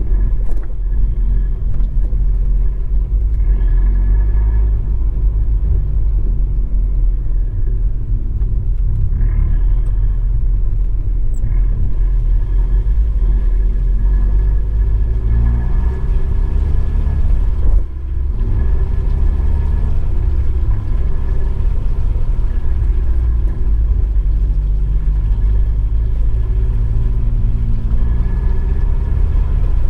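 Abarth 595 Esseesse's turbocharged four-cylinder driving through an Akrapovič exhaust under way on a wet track, a heavy low rumble picked up by a microphone in the trunk along with road noise. The engine pitch climbs and falls as it accelerates and shifts, with a short dip about eighteen seconds in.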